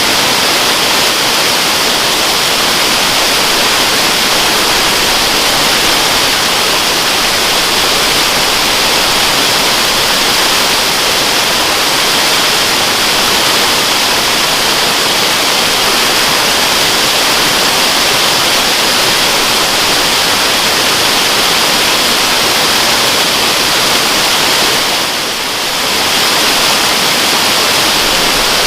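Waterfall rushing steadily: a dense, even hiss of falling water, strongest in the upper range, with a brief dip in level near the end.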